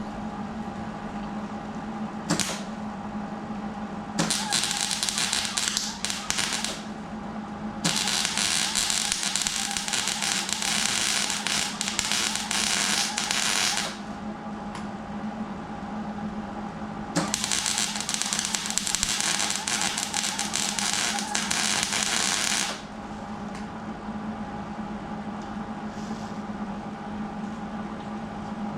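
Three long bursts of harsh, crackling hiss from an electric arc torch cutting or welding steel, each lasting a few seconds, over a steady machine hum.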